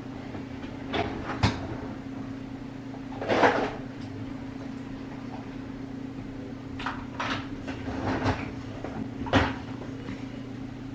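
Kitchen handling sounds while preparing food: scattered knocks and clicks with a brief scraping rustle a few seconds in, over a steady low hum.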